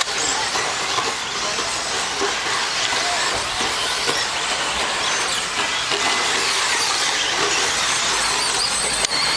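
A pack of 1/10-scale electric stadium trucks racing around a dirt track: a steady dense hiss of motor whine and tyres, with faint high whines rising and falling as the trucks accelerate and brake.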